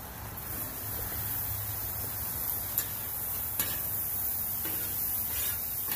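Butter and sliced vegetables sizzling steadily on a hot flat-top griddle, growing a little louder about a second in as the vegetables go on, with a couple of sharp clicks of a metal spatula against the griddle.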